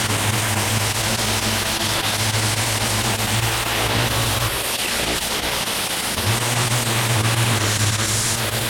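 Pressure washer running, with a steady hiss of spray over a low motor hum; the hum drops out for about a second and a half midway, then comes back.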